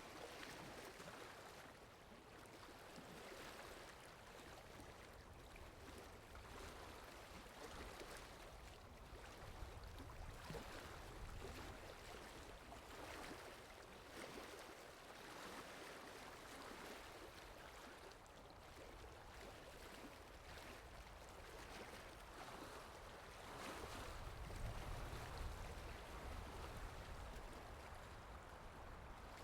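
Faint steady water ambience: a soft, even rushing hiss with no tune in it, its low rumble swelling a little near the end.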